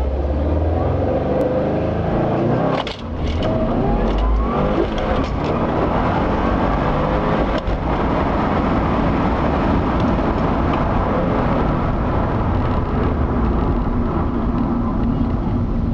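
2012 Subaru WRX's turbocharged flat-four engine, on an EcuTek stage 1 tune, accelerating hard, with a brief sharp drop in the sound about three seconds in and another near eight seconds.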